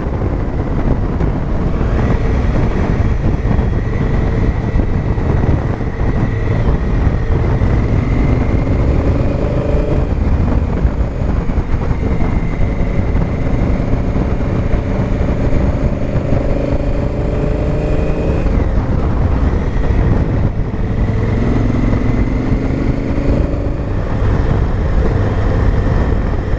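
Honda Africa Twin's parallel-twin engine pulling along the road under heavy wind rush, its pitch climbing as it accelerates three times, the longest pull cutting off suddenly about two-thirds of the way in.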